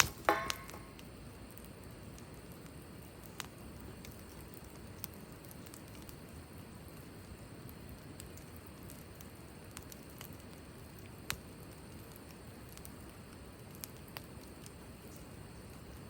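Wood campfire burning, with a steady low hiss and occasional single sharp crackles and pops. A quick cluster of louder clicks and knocks comes right at the start.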